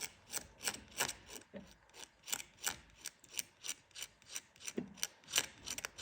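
Razor blade scraping back and forth over hardened JB Weld epoxy on a propeller shaft, in quick short strokes about three a second with a brief pause partway through. The blade is cutting the cured epoxy, shaving off its high spots.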